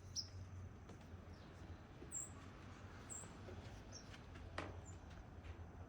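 Faint, high, short chirps of small birds, five or six single notes spread apart, over a low steady hum, with one sharp click about four and a half seconds in.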